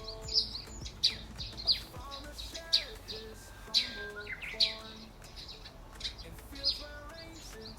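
Birds chirping: a run of short, sharp chirps, each falling in pitch, about one a second.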